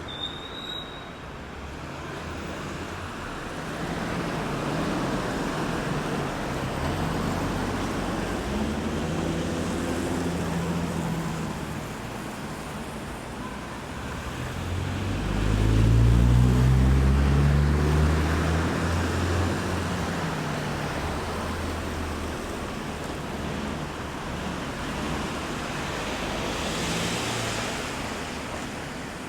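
Road traffic going round a roundabout: vehicles pass one after another with engine hum and tyre noise. The loudest pass comes about halfway through, a vehicle with a low engine note that rises in pitch as it speeds up. A short high squeak sounds right at the start.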